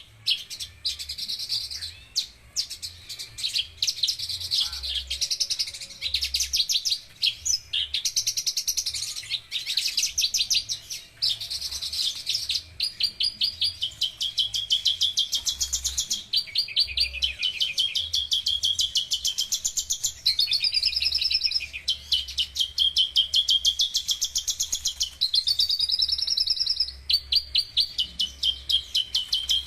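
Javan bush lark (branjangan) singing a long, near-continuous song of very fast trills and chattering phrases, with a few rising slurred notes in the later part.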